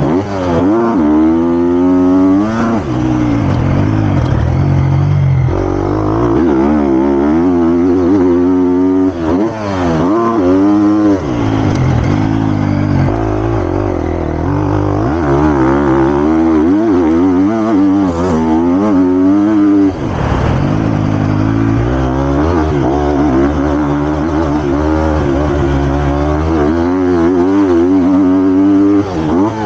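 Triumph TF250-X's 250cc single-cylinder four-stroke engine being ridden hard, revving up and dropping back over and over as the throttle opens and closes and the gears change, with brief drops in revs about nine and twenty seconds in.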